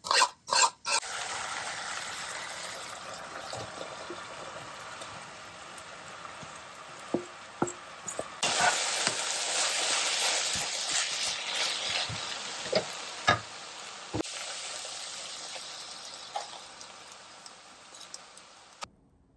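Food sizzling in a frying pan: a steady hiss that is louder for several seconds in the middle, with occasional sharp clicks of a utensil against the pan. It cuts off abruptly near the end.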